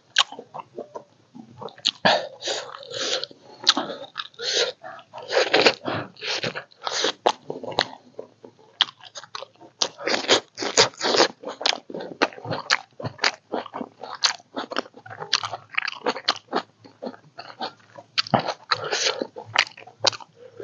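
Close-miked chewing and crunching of food: a steady run of irregular bites and chews with short pauses between them.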